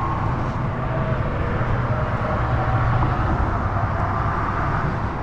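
Steady rumble of car traffic crossing the bridge overhead, tyres and engines running together into a continuous noise.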